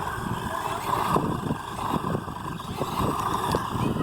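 Hosim S911 RC truck's electric drive whining, swelling and fading several times as the throttle is worked, over a rough crackle.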